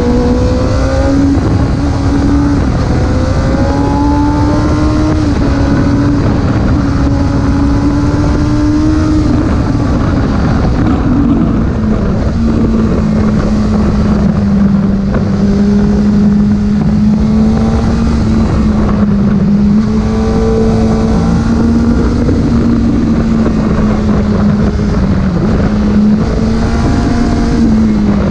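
Porsche engine droning steadily while the car is driven, the pitch gliding a little and dropping to a lower, steady note about eleven seconds in, over loud rushing road noise.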